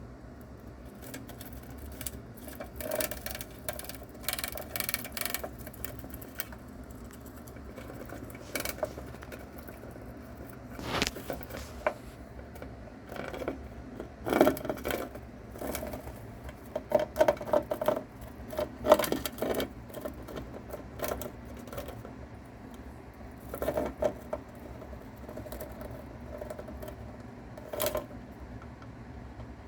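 A mouse tearing into and chewing a live cicada: irregular crunching, crackling and rustling clicks, with the loudest cluster of bursts a little past the middle.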